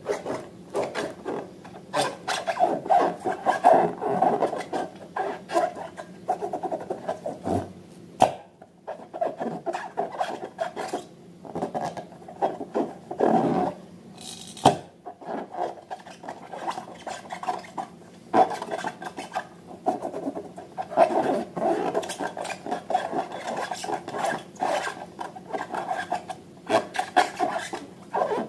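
Slime being mixed and worked, making irregular rubbing and scraping strokes with frequent short clicks.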